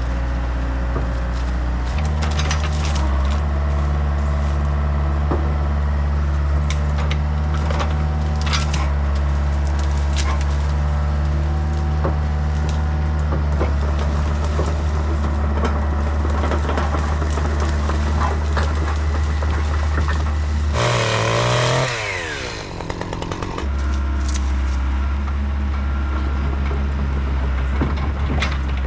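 Excavator diesel engine running steadily under work, with wood cracking and snapping now and then. About two-thirds of the way in the engine sound breaks off for a couple of seconds, and a rough noisy burst with falling pitch takes its place.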